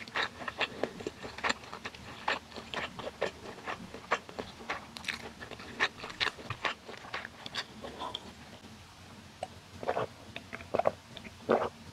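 Close-miked mouth sounds of chewing pan-fried battered beef (yukjeon): many quick wet clicks and smacks. Near the end they give way to a few louder gulps as a bottled drink is swallowed.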